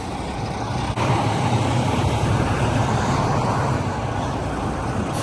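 Semi truck's diesel engine running steadily as a low rumble, getting a little louder about a second in.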